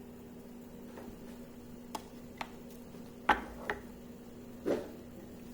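A handful of separate sharp clicks and light knocks, about five in all, the loudest a little over three seconds in, over a steady low hum.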